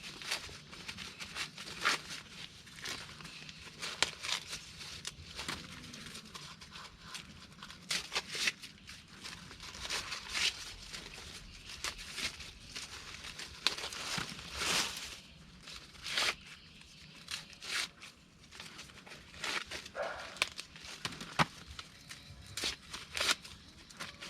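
Dry corn husks and leaves rustling, crackling and tearing as ears of corn are picked by hand, in an irregular run of short crackles and sharper snaps.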